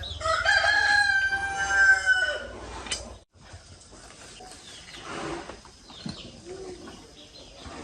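A rooster crowing once, one drawn-out call of about two seconds with a pitch that falls slightly, over a low steady hum. The hum cuts off about three seconds in, leaving faint scattered knocks.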